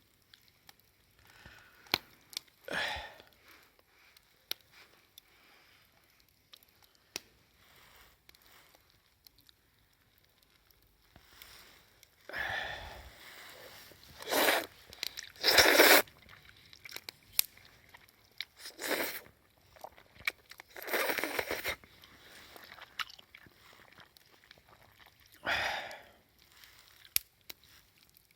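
A person chewing crunchy food in scattered bursts, with sharp clicks in between; the loudest crunches come around the middle.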